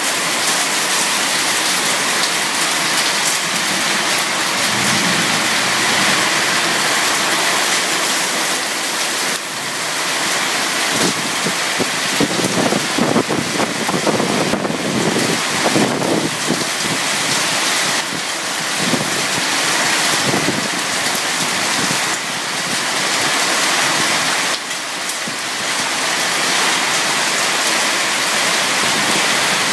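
Heavy monsoon rain pouring down in a steady, dense hiss. About halfway through there is a louder, rougher stretch with deeper sound in it.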